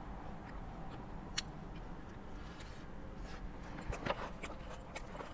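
Salad being eaten: crisp lettuce crunching while chewing and a plastic fork clicking in a plastic bowl, a single click early and several short crisp clicks in the second half, over a low steady hum.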